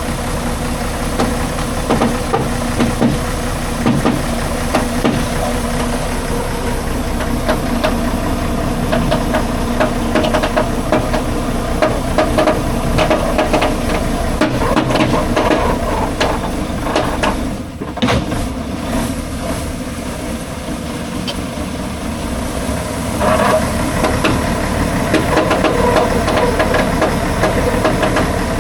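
Logging truck's engine running, with a clatter of small knocks over it; it dips briefly a little past halfway and grows louder near the end.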